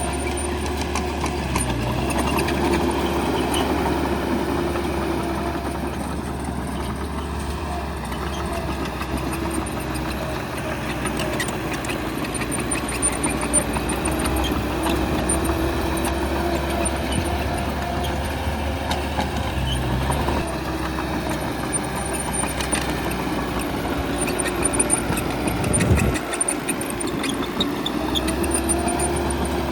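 Bulldozer diesel engine running steadily at work, with scattered sharp knocks and clanks, the loudest about 26 seconds in.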